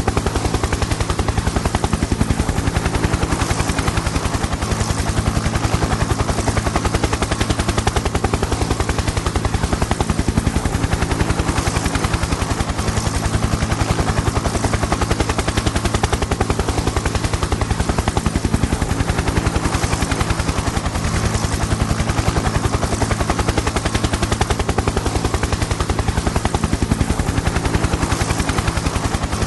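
Helicopter in flight: rotor blades chopping in a fast, steady beat over a steady low engine drone.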